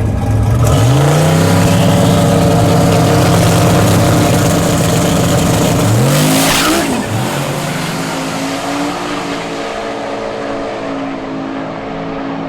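Drag race car accelerating hard, its engine pitch climbing near the start and again about six seconds in, with a brief hiss around seven seconds. The engine then runs steadier and somewhat quieter.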